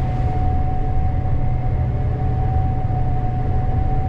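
Gleaner S98 combine running under load while harvesting corn, heard from inside the cab: a steady low drone with a constant high whine held on one note.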